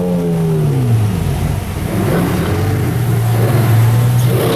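Sports car engine revved: a sharp blip right at the start and a smaller one about two seconds in, each rising and falling in pitch, then settling to a steady idle.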